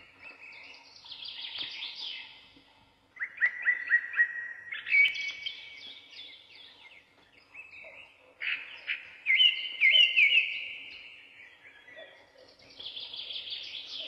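A songbird singing: four phrases of rapid chirps and trills, each two or three seconds long, with short pauses between them.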